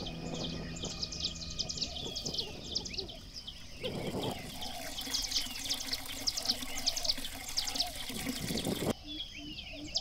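Birds chirping in a quick, continuous run of short, high, downward-sweeping calls.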